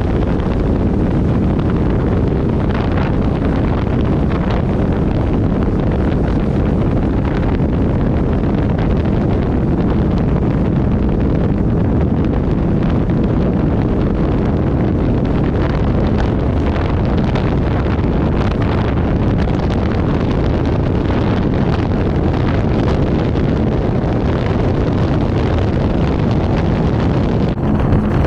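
Twin V8 engines of an Avanti 33 powerboat running steadily under way, mixed with wind buffeting the microphone.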